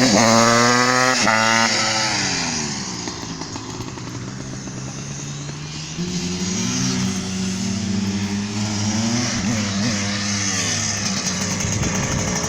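Small dirt bike engine revving. The pitch rises, then drops and fades as the bike moves off, and about six seconds in it comes back louder with more rises and falls in revs.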